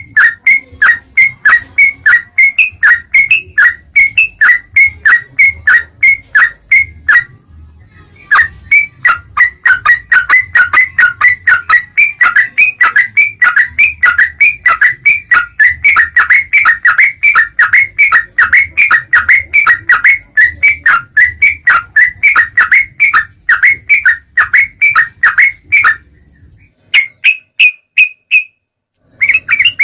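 Yellow-vented bulbul (trucuk) calling: a fast run of sharp, repeated chirps, about three a second, broken by a short pause about seven seconds in and again near the end.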